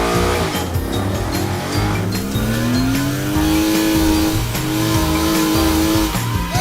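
Race car engine sound effect over background music with a steady beat. The engine pitch falls at the start, then rises about two seconds in and holds steady.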